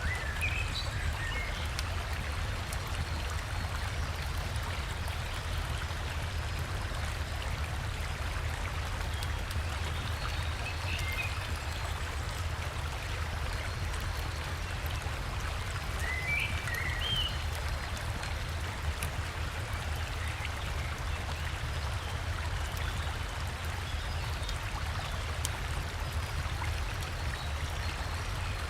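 River water and a small waterfall rushing steadily, with a few brief bird chirps now and then over it.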